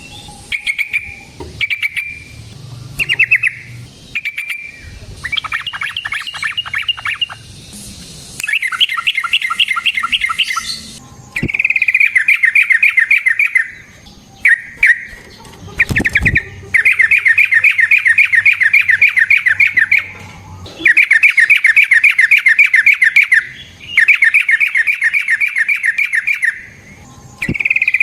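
Yellow-vented bulbul (trucukan) calling: a few short chirps, then long fast rattling runs of notes, each lasting two to three seconds, repeated several times. There is a sharp click about sixteen seconds in.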